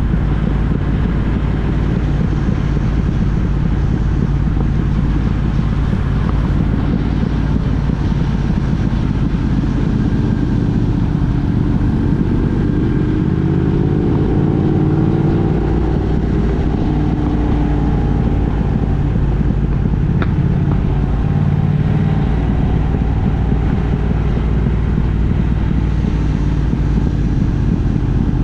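Steady engine and road rumble of a vehicle on the move, heard from on board. Around the middle an engine tone rises and falls for several seconds.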